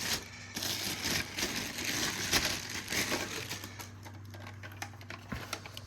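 Packaging crinkling and rustling with small clicks as a boxed O scale model hopper car is unwrapped, busiest in the first few seconds and then thinning out.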